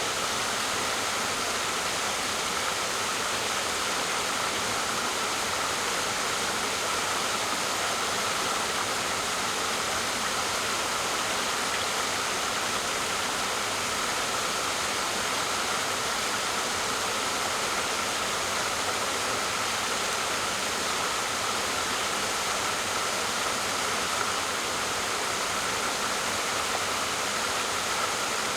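Waterfall: a steady, unbroken rush of falling water, with most of its sound in the middle and high range.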